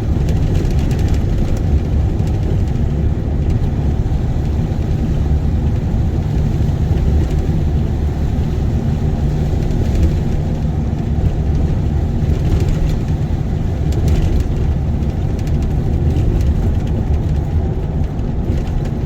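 Road and engine noise heard inside a moving vehicle's cabin: a steady low rumble with a few faint rattles.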